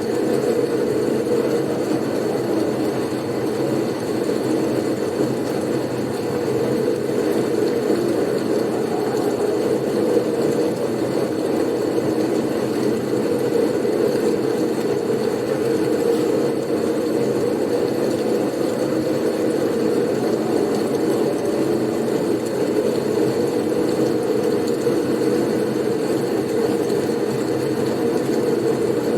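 Blizzard wind sleep soundscape: an even, unbroken low rush of wind noise with a faint thin hiss above it.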